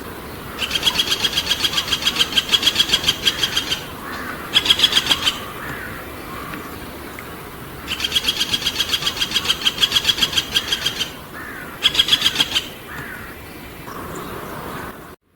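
A small bird singing a rapid, dry trill of about eight notes a second. Two phrases of about three seconds each, each followed a moment later by a short burst, with faint chirps of other birds in the gaps.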